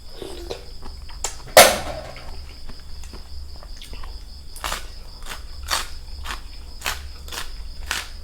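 Crickets chirping in a steady high drone behind close crisp crunches. There is one loud crunch about one and a half seconds in, then sharp crunches about once a second, from chewing raw vegetables.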